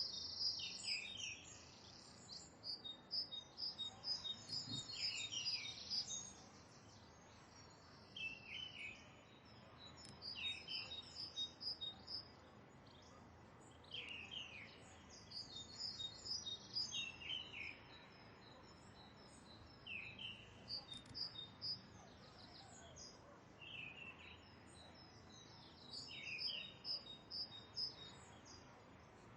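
Birds chirping and calling: a short falling call repeats roughly every two seconds, among quick higher chirp series, faint over a low background hiss.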